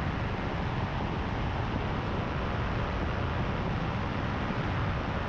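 Paramotor engine and propeller running steadily in flight, a constant drone mixed with rushing wind on the microphone.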